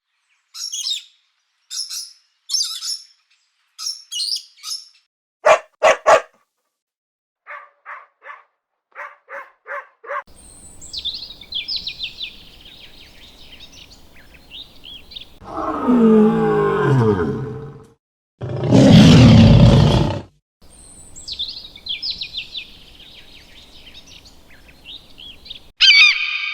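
A string of animal calls: scattered bird chirps, a quick run of short pitched calls, then a long call falling in pitch and a loud roar about two-thirds through, with bird chirps again after it.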